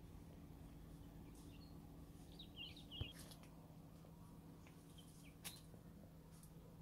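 Faint chirps of small birds: a short run of twittering calls about two and a half seconds in and a couple more near five seconds, over a low steady hum and two soft clicks.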